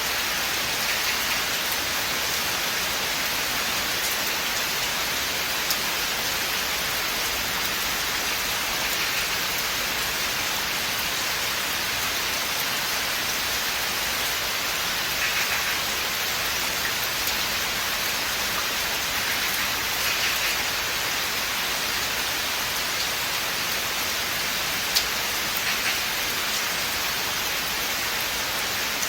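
Steady rain falling in a forest, an even hiss with a few slightly louder patters of drops and one sharp tick near the end.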